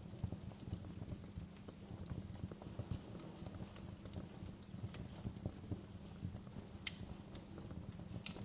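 Wood fire burning in a fireplace: a steady low rumble of flames with irregular small crackles and pops, two sharper snaps near the end.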